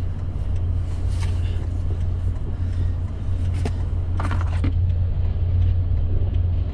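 Vehicle engine running with a steady low hum, and a few short clicks and rattles over it, the loudest about four seconds in.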